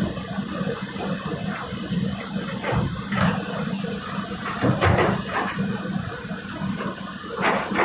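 Excavator diesel engine running steadily, with a few short knocks and clanks of the machinery over it.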